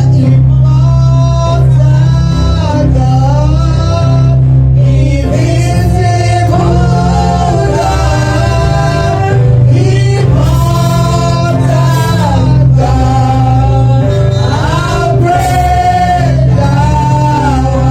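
Gospel worship song: a male lead singer and backing voices over a steady bass-heavy band.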